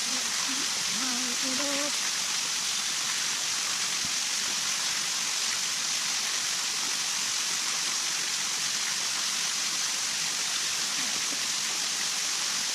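Steady, even hiss of water, running or falling, with no change in level. Faint voices murmur in the first couple of seconds and again near the end.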